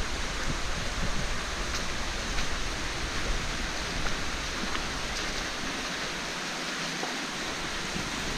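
Creek water rushing and splashing over the rock of the canyon floor, a steady even hiss.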